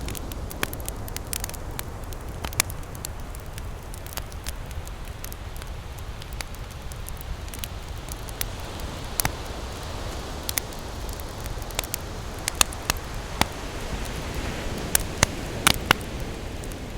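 Wood campfire crackling, with irregular sharp pops and snaps that come thicker and louder a few seconds before the end, over a steady low rush of ocean surf.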